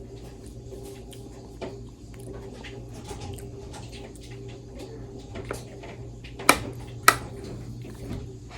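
Eating at close range: small wet mouth noises and soft clicks of a utensil, with two sharp clinks of metal cutlery on dishware about half a second apart a little past halfway, over a steady low hum.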